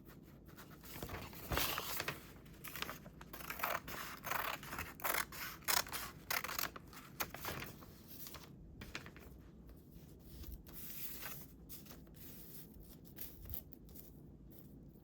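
Scissors cutting paper in a quick run of short snips, busiest in the first half, followed by quieter, sparser paper handling.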